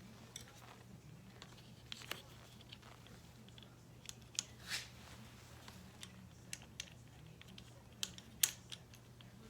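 Scattered light clicks and short rustles of small wiring parts and hand tools being handled on a workbench, over a steady low hum.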